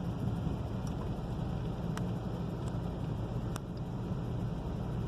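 Steady low rumble of an automatic car wash, heard from inside a car's cabin between wash stages, with a few faint ticks.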